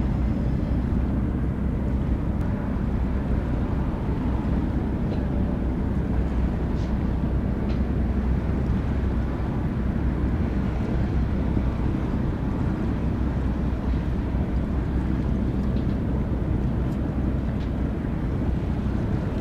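Ship's engines running with a steady, low drone and a faint steady hum above it.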